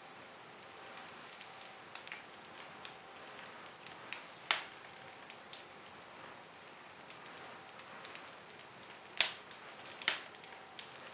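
Wood fire in a fireplace crackling, with many small ticks and three sharper pops: one about four and a half seconds in and two close together near the end.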